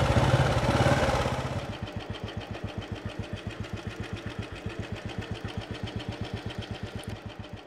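Motorcycle engine running as the bike rolls up and stops, then about a second and a half in it drops to an idle with a steady, even beat.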